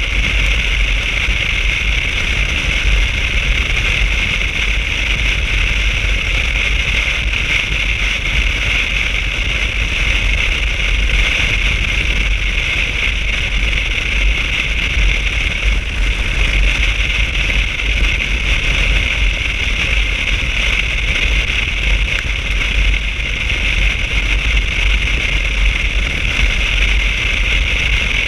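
Steady rush of wind and road noise from a motorcycle riding at a constant speed, with a deep rumble underneath and no change in pace.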